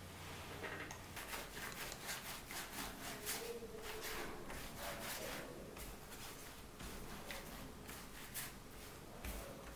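Kitchen prep sounds: something being rubbed and scraped in quick repeated strokes, with light knocks between them.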